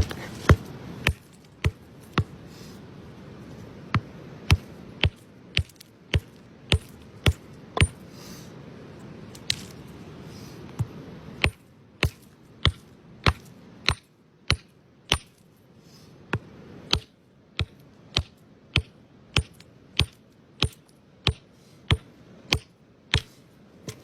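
A long series of sharp taps, a hard object striking hard material, at times about two a second with short pauses between runs.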